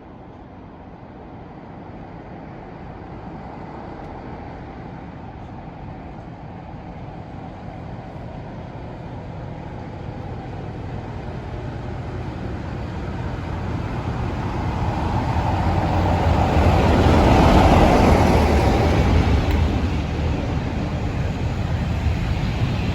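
Diesel train approaching with its engine running steadily, growing gradually louder and loudest about 17 to 18 seconds in, then running on past.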